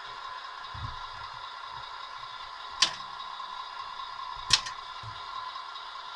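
1:14 Tamiya MAN radio-controlled truck running with a steady whine, broken by two sharp clicks about three seconds in and again a second and a half later.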